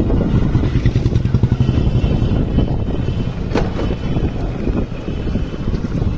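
Motor vehicle running with a steady low rumble, likely heard while riding, and a single sharp knock about three and a half seconds in.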